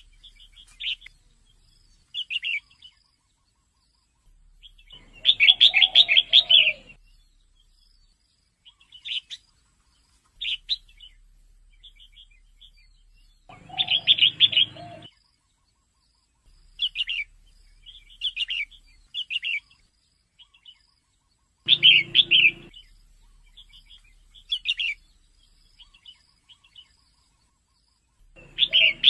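Female red-whiskered bulbul calling: short chirps, with a louder, longer call phrase about every eight seconds.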